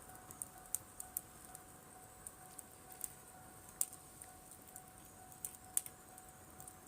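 Driftwood campfire crackling: irregular sharp pops and snaps, a few of them louder.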